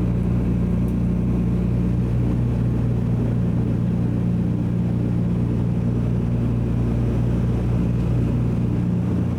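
Douglas DC-3's two Pratt & Whitney R-1830 Twin Wasp radial piston engines droning steadily, heard from inside the cabin.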